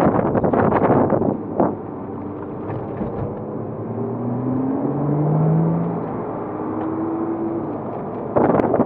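Porsche Cayman S's 3.4-litre flat-six driven hard on track. It is loud at first and drops off about a second in. A quieter engine note then climbs slowly in pitch, and the loud engine comes back suddenly near the end.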